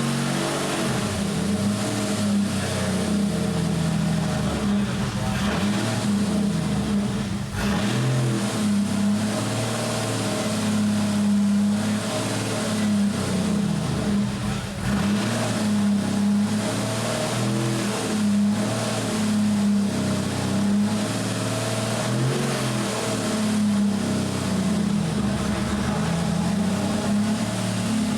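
Porsche 993 Supercup race car's air-cooled flat-six held at a fast idle around 1,500–2,000 rpm, engine speed rising and falling slightly as the throttle is feathered to keep the cold engine running.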